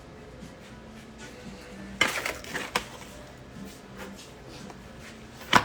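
Light clatter and clicks of hard objects being handled and set down, in a short burst about two seconds in and a single sharp knock near the end.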